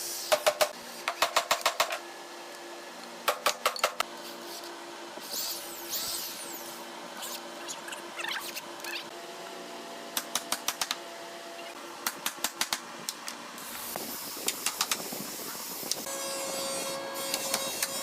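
Bursts of rapid, sharp knocks on wood, several quick strikes in each burst, repeated every few seconds, as in carpentry work.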